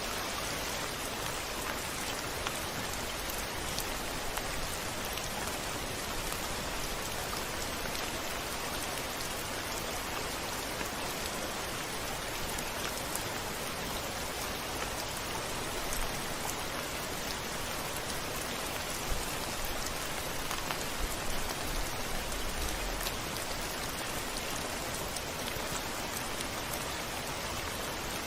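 Steady rain hitting a window, an even hiss with scattered drop ticks, and a few brief low rumbles about two-thirds of the way through.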